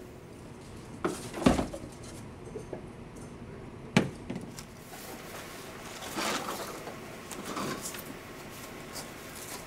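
Desk items being packed into a cardboard box. There are a couple of thuds about a second and a half in and a sharp knock as a mug is set down in the box about four seconds in. Softer scraping and rustling follows as the box is handled and carried.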